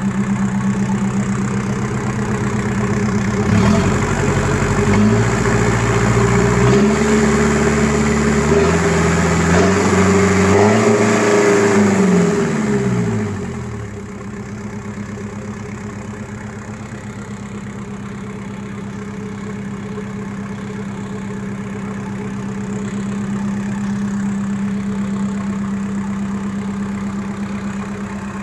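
Volvo Penta D2-55 four-cylinder marine diesel running: it idles, is revved up in steps from about four seconds in, then drops back to a steady idle by about fourteen seconds.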